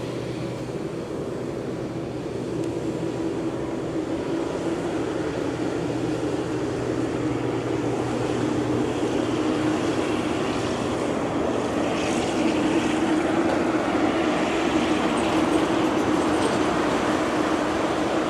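Jet engines of a Boeing 787-9 running, a steady hum with a held low tone that slowly grows louder.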